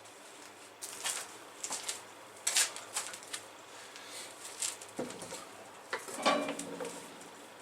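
Scattered light clanks and taps of metal parts being handled and knocked against each other, a dozen or so short strikes, with a fuller knock that rings briefly near the end.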